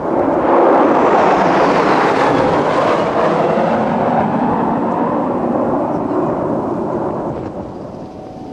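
F-16 fighter jet engine passing close by: the jet noise swells quickly to a loud peak, then fades slowly over several seconds, with a high whine falling in pitch as it goes past.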